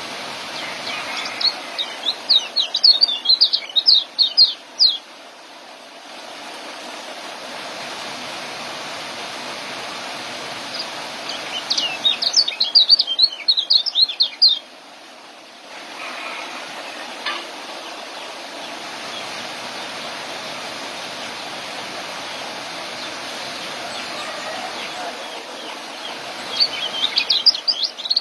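Young kecial songbird singing in three bouts of rapid, high chattering chirps, the 'ngeriwik' song that keepers play to tutor other birds, over a steady background hiss.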